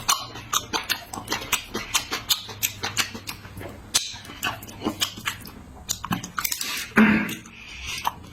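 Close-up eating sounds: wet smacking and chewing with many quick, irregular clicks of the mouth, and a short voiced "mm" near the end.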